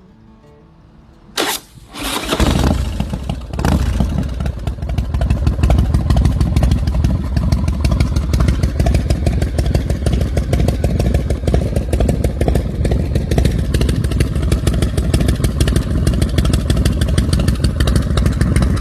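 Custom chopper's high-compression billet motor starting about two seconds in, after a short burst just before, then running loudly with a fast, even firing pulse.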